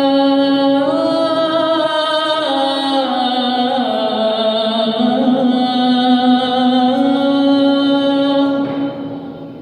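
A man's solo voice chanting the Shia adhan (Islamic call to prayer), drawing out one long, ornamented melismatic line on "ḥayya ʿalā" that steps up and down in pitch. It fades away near the end as "aṣ-ṣalāh" begins.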